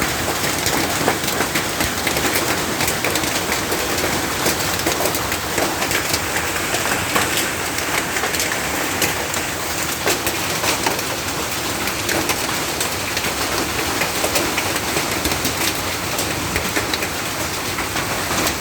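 Heavy hail and rain falling, with many hailstones striking hard in quick, irregular succession over a steady downpour.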